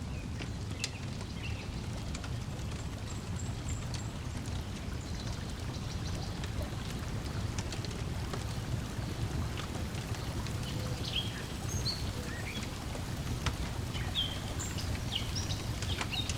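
Lakeside ambience: a steady low wash of water lapping at the shore, with scattered pops and snaps of a crackling wood fire and short bird chirps, more frequent in the second half.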